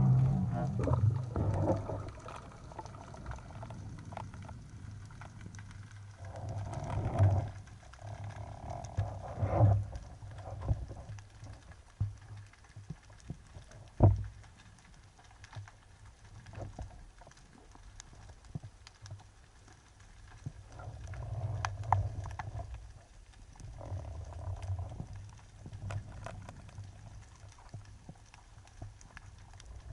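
Muffled underwater sound from a diving camera: low, irregular water movement with scattered clicks and one sharp knock about fourteen seconds in.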